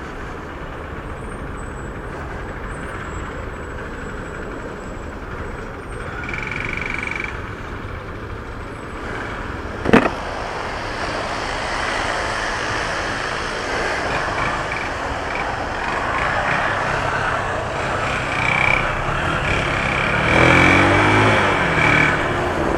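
Honda CG 150 single-cylinder motorcycle ridden slowly in traffic: engine running under road and traffic noise. There is a sharp click about ten seconds in, and near the end a louder stretch whose pitch wavers up and down.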